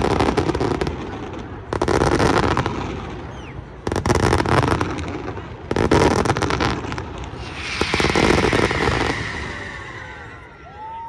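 Fireworks going off: four crackling salvos about two seconds apart, then a longer hissing burst with whistling glides near the end.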